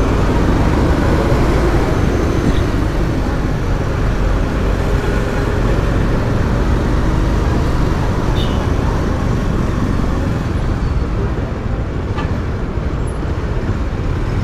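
Steady, loud road noise heard from a moving motorcycle in city traffic: engine, tyres and passing vehicles blended into one continuous rush.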